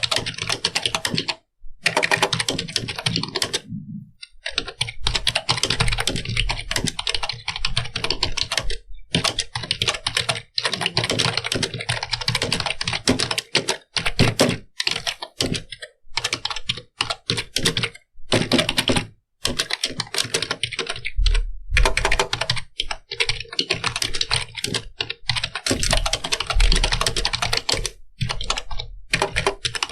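Computer keyboard being typed on: fast, dense runs of key clicks broken by brief pauses every few seconds.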